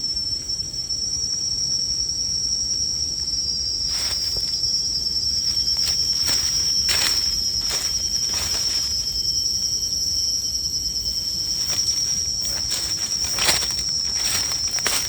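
Forest insects droning in one steady high-pitched note, with a series of short sharp knocks or cracks from about four seconds in.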